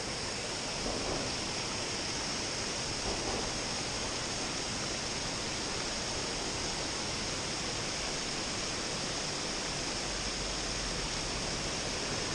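Steady rush of water pouring over creek falls, an even, unbroken roar.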